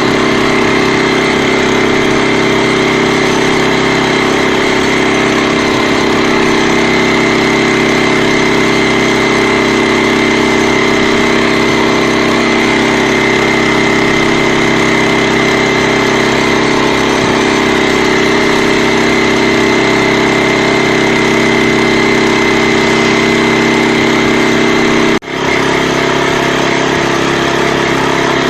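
Walk-behind tractor (motoblock) engine running steadily under load while pulling a loaded trailer along the road. Near the end the sound drops out suddenly for a moment and comes straight back.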